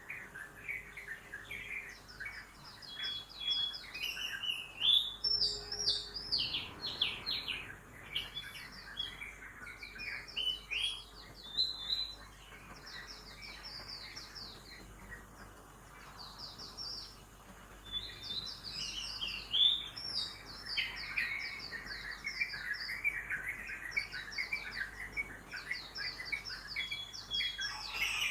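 Several birds chirping and trilling at once, a dense chorus of quick high notes, with a faint low hum of city traffic underneath.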